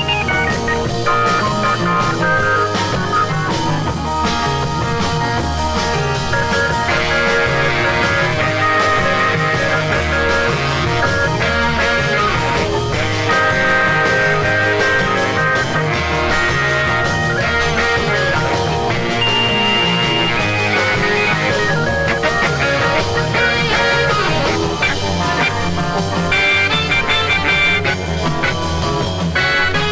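A 1966 instrumental beat-group record playing: a band with guitar over a bass line that shifts every couple of seconds.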